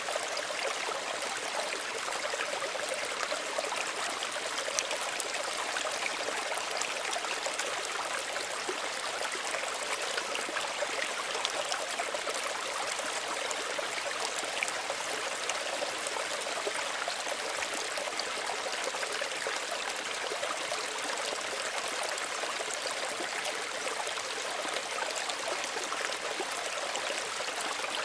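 Small stream running steadily over stones, a gentle, even burble with fine trickling.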